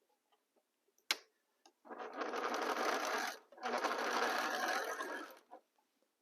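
Sewing machine stitching a seam in two runs of about a second and a half each, with a short pause between, preceded by a single sharp click.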